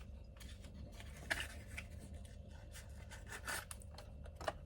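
A new spark plug being taken out of its box and handled: light rustling and small scrapes, with sharper clicks about a second in, past the middle and near the end.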